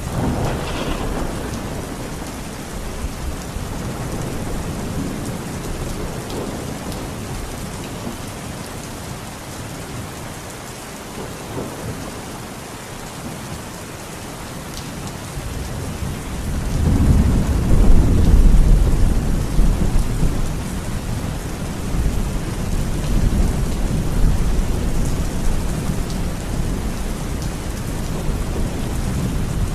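Steady rain falling, with a low roll of thunder that swells a little past halfway and dies away slowly.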